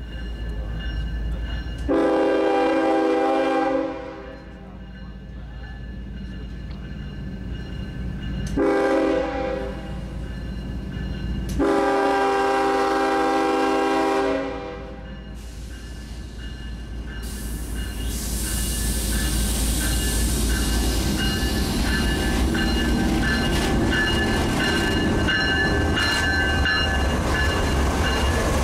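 Freight locomotive's air horn blowing a long blast, a short one and another long one, the pattern sounded for a road crossing. Then the train rumbles past, louder and louder, with wheels clicking over the rail joints.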